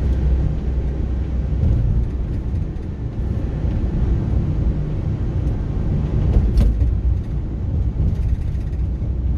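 A car driving slowly over a rough, patched road: a steady low rumble of tyres and engine, with a single sharp knock about six and a half seconds in.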